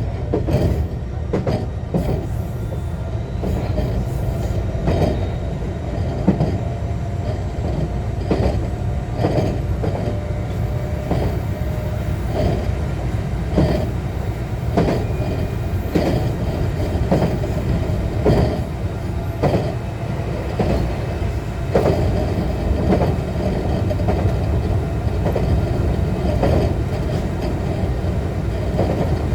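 JR West 125 series electric railcar with a Toyo IGBT inverter running along the line, heard from inside the car: a steady low rumble with sharp wheel clacks over rail joints every second or so.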